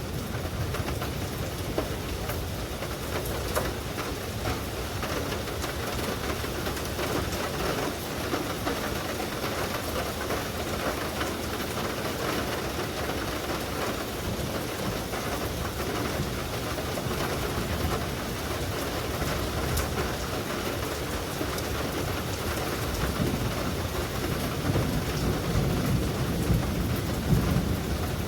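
Steady rain falling in a thunderstorm, an even hiss throughout. Deep thunder rumbles at the very start and again in the last few seconds.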